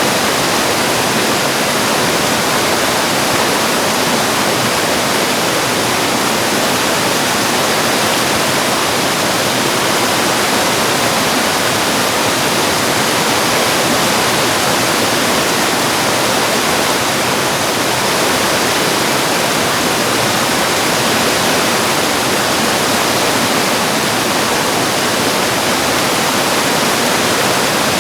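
Mountain valley stream rushing over rocks, a loud, steady, even rush of water with no change.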